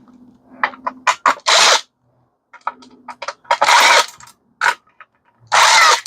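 Metal scrap being handled while a microwave is pulled apart: a run of sharp knocks and clanks, with three loud rasping scrapes of about half a second each.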